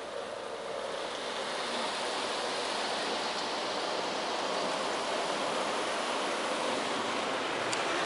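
Spot-free rinse water spraying onto a car in an automatic car wash, heard from inside the car as a steady hiss that grows a little louder after about a second.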